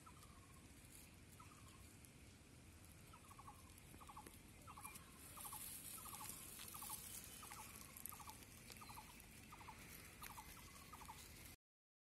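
Faint bird calls over a steady low hiss: a few short falling notes, then clusters of three or four quick notes repeated about twice a second. The sound cuts off suddenly just before the end.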